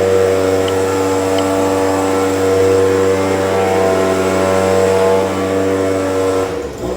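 Stihl BG 86C handheld leaf blower's two-stroke engine running at a steady, even speed, then cutting out abruptly near the end.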